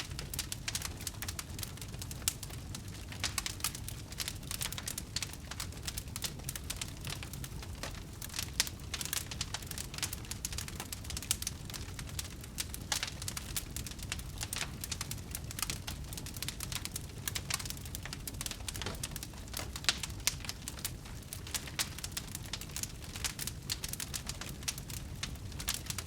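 Campfire of burning wood crackling, with frequent irregular pops and snaps over a steady low rumble.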